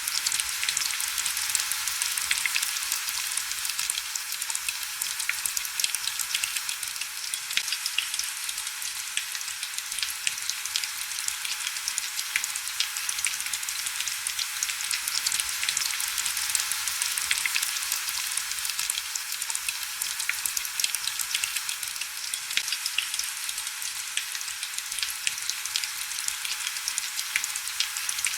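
Steady heavy rain: a dense, even hiss of countless fine drop ticks, bright and crackly, with almost no low rumble.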